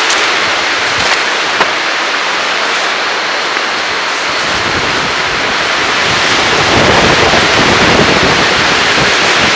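Strong, gusty wind rushing and buffeting the microphone. The rumble swells louder about halfway through.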